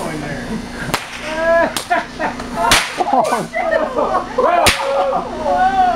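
A volley of small fireworks rockets going off: many overlapping whistles sliding in pitch, broken by four sharp cracks about a second or two apart.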